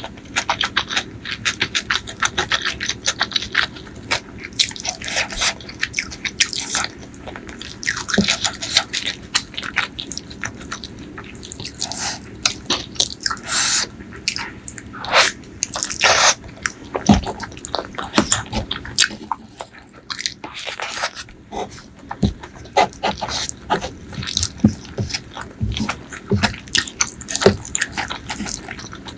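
Close-miked mouth sounds of eating spicy pork leg curry with rice: wet chewing, lip-smacking and many quick irregular clicks.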